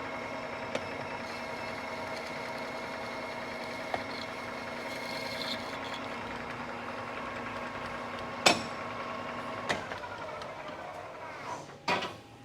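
Manual engine lathe running in high gear with a steady gear-train whine during a light two-thousandths finishing pass on a steel plate. A sharp click comes about eight and a half seconds in, and the spindle winds down near the end.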